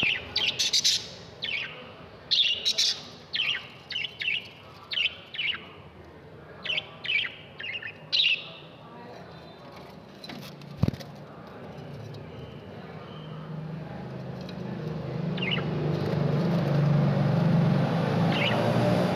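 Lovebirds chirping in short, sharp, high calls, many in quick succession over the first eight seconds, then only a few scattered chirps. A single click comes about eleven seconds in, and a low steady noise grows louder through the second half.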